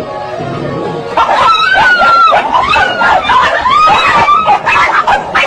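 Music for about the first second, then rapid, high-pitched squealing calls that glide up and down.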